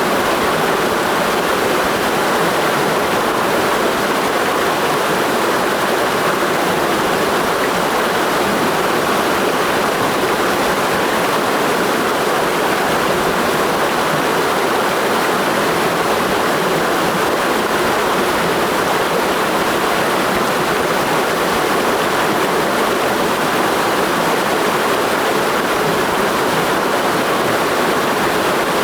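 Mountain stream rushing over rocks, a steady loud, even rush of water with no change.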